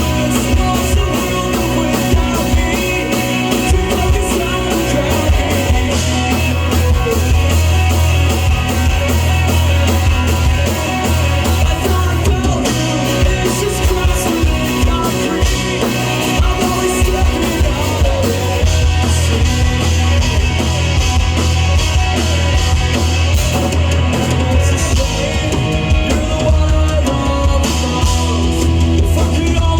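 A live rock band playing a song at full volume, with a drum kit keeping a steady beat under heavy bass and singing.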